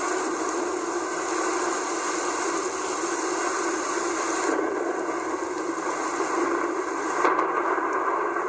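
Heavy rain pouring down in a steady hiss, with a short sharp crack about seven seconds in.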